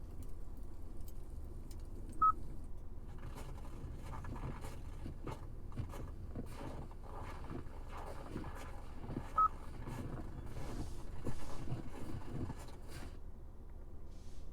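Two short electronic beeps from the car's controls, about seven seconds apart, with clicks and rustling of hands working controls between them, over a low steady rumble.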